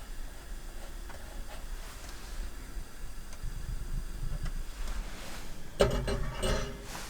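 Objects being handled and rubbed, with a short, louder clattering of clicks and ringing near the end, over a low steady rumble.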